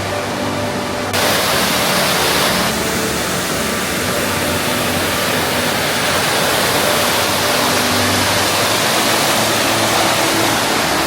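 Steady rush of a waterfall, jumping louder about a second in.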